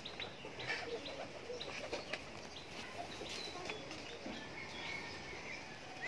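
Birds chirping in short, scattered calls over a low steady background hiss.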